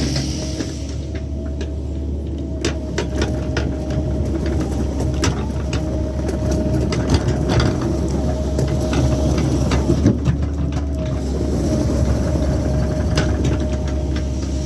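Excavator's diesel engine running steadily, with a thin steady whine over it and scattered sharp clicks and knocks.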